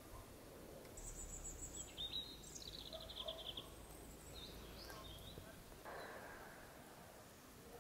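Faint outdoor ambience with small birds singing: a fast high trill about a second in, then a run of quick repeated chirps, and a few scattered chirps later, over a low rumble.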